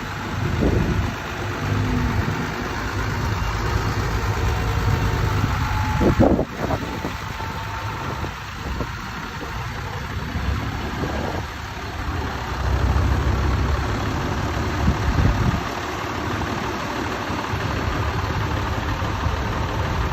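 Old tractor engines running as tractors pass in procession, a low uneven rumble that swells and fades. A sharp knock sounds about six seconds in.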